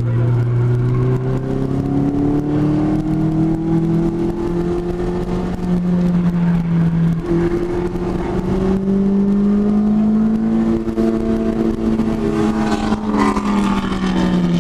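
Lotus Elise's four-cylinder engine heard from inside the cabin, pulling hard under acceleration with its note climbing in pitch, a brief break about seven seconds in, and the note falling near the end as the car slows.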